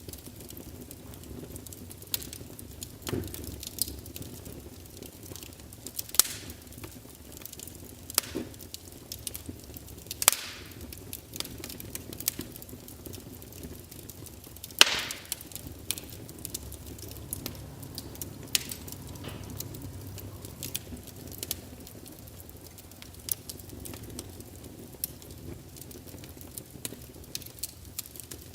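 Wood fire of burning logs crackling, with a low steady hiss and irregular sharp pops, the loudest about 15 seconds in.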